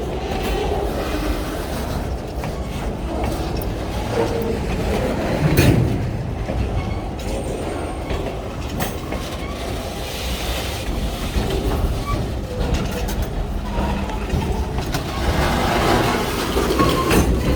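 Freight train rolling past on steel rails: a steady rumble of wheels and cars, with a few sharp knocks, the loudest about five and a half seconds in.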